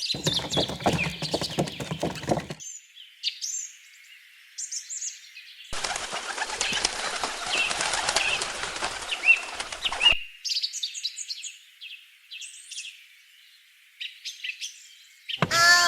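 Small birds chirping and tweeting in short repeated calls. A fuller noisy sound runs under them for the first two and a half seconds, and a steady rushing noise starts about six seconds in and stops sharply about four seconds later.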